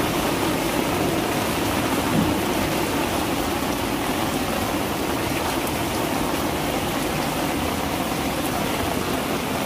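Heavy rain falling on a tiled rooftop terrace: a steady, even hiss that doesn't let up.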